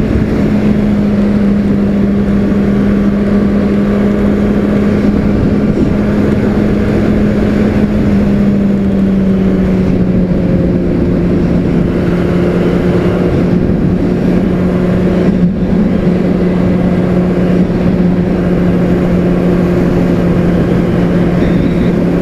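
Honda CBR600RR's inline-four engine running at steady cruising revs under a steady rushing noise. The engine note eases slightly lower about nine seconds in and then holds.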